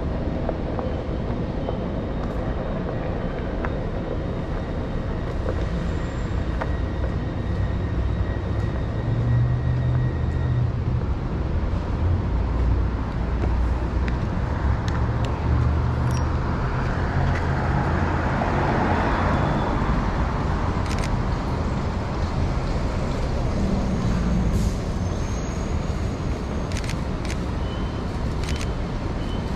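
City street traffic noise: a motor vehicle's engine running with a low hum, and a swell about two-thirds through that rises and falls as a vehicle passes.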